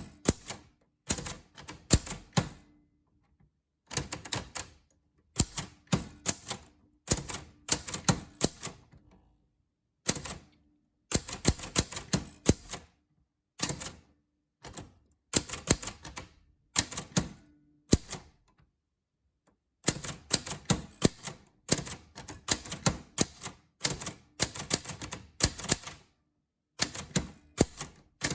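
Typewriter keys struck in quick runs of several clicks, with short pauses between the runs and a couple of longer breaks.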